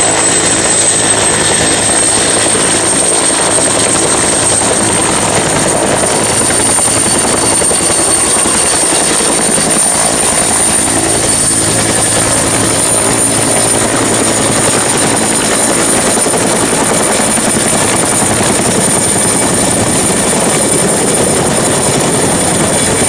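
Helicopter sound: a loud, steady rotor-and-engine noise with a high thin whine that rises slightly over the first few seconds and then holds, stopping suddenly at the end.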